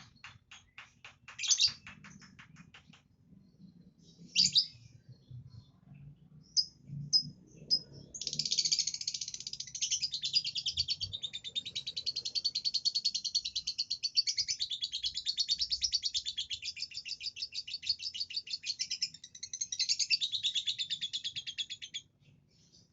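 Lovebird chirping in short scattered calls, then from about eight seconds in breaking into a long, rapid, unbroken chattering song that runs for about fourteen seconds and stops abruptly near the end.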